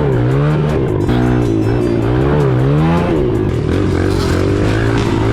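Dirt bike engine running under way, its pitch climbing and dropping as the throttle is worked through the gears, with sharp drops about a second in and again about three seconds in, then holding steady.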